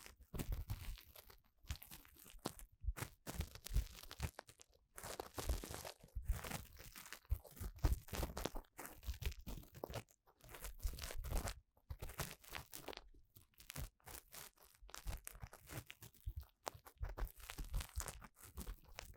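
Ear-cleaning tool scraping and rubbing inside the ear of a binaural dummy-head microphone, close up: irregular scratchy strokes in bursts with short pauses between them.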